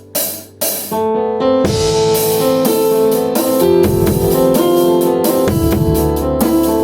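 Piano and drum kit playing together: a couple of sharp accented hits in the first second, then the drums settle into a full beat with cymbals under sustained piano chords from about a second and a half in.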